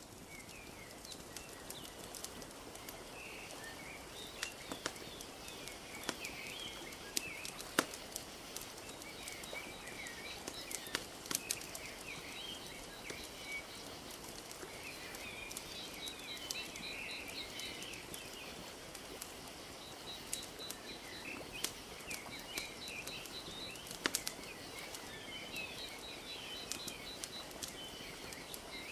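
Wood fire crackling with scattered sharp pops over a steady wash of gently lapping lake water. Small birds chirp throughout, and a fast, high trill repeats several times in the second half.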